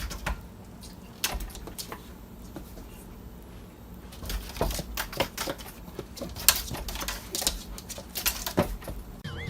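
Irregular light clicks and taps, sparse at first and coming more often in the second half. A brief high wavering squeak comes near the end.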